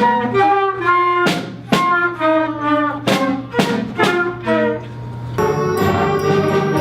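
Instrumental music with brass and wind instruments: a run of separate, sharply started notes, changing about five seconds in to a fuller ensemble sound with high ringing tones.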